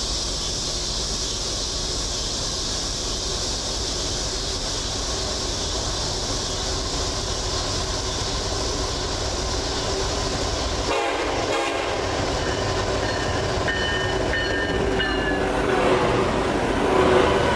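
Freight train running past with a steady rush of wheel and rail noise. In the last few seconds a diesel locomotive sounds its multi-tone air horn in two blasts, the second louder as the locomotive comes close.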